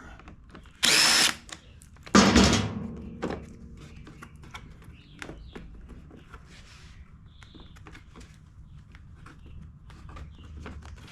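Power drill-driver running briefly about a second in, backing out a screw from the generator's plastic case, then a single loud thunk just after two seconds, followed by light clicks and rattles of plastic parts and screws being handled.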